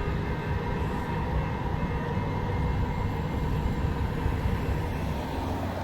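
Train running on the rails: a steady rumble with faint steady tones above it, easing off near the end.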